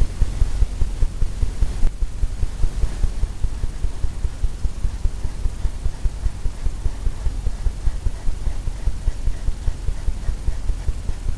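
A brush working paint onto a canvas on the easel: a rapid, even run of low thumps, about four or five a second.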